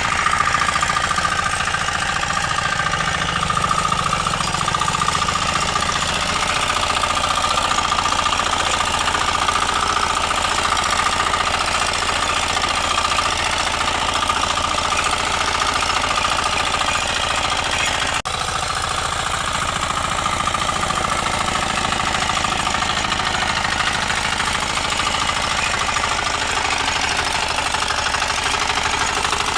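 Engine of a 9.5 hp power weeder running steadily, with a short break about two-thirds of the way through.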